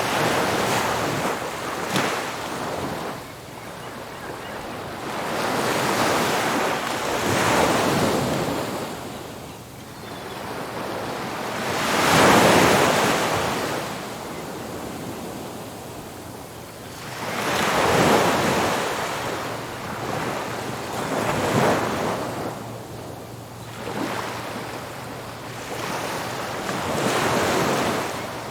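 Ocean surf breaking on a beach: waves crash and wash in one after another every few seconds, the loudest about twelve and eighteen seconds in, with a steady rush of water between them.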